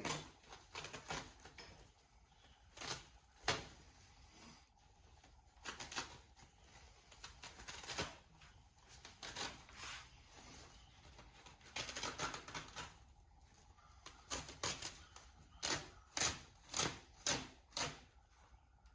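Plastic kitty litter buckets and their lids being handled, giving scattered knocks and clicks, with a quick run of about five knocks near the end.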